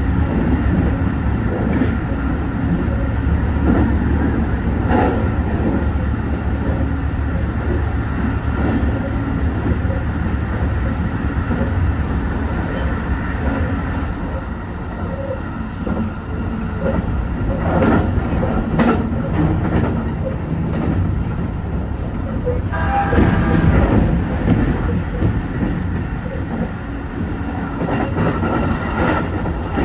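A JR Senseki-Tōhoku Line hybrid diesel railcar running at speed, heard from on board: a steady low rumble with a constant mechanical whine, a few sharp clicks over rail joints, and a brief louder stretch with a pitched tone about 23 seconds in.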